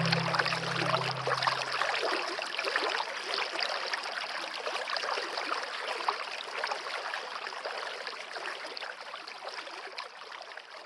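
Steady running water of a stream, slowly fading out toward the end. Held low notes of background music die away about two seconds in.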